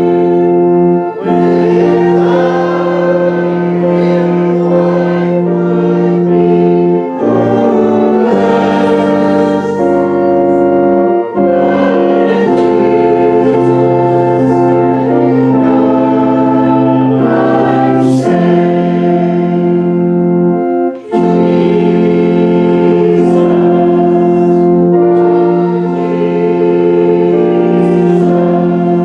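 Choral singing with organ accompaniment, in long held chords that change every few seconds, with brief breaks between phrases.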